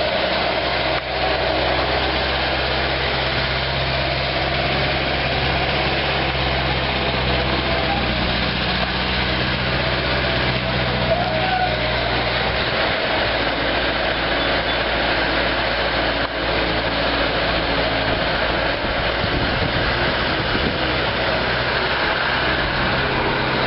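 Engine of a 2002 Bobcat A300 Turbo skid steer running steadily.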